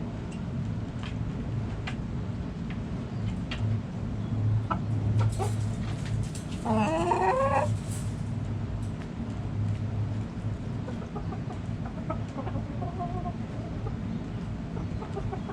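Backyard chickens clucking, with one loud, rising call about seven seconds in and fainter calls later, over a steady low hum.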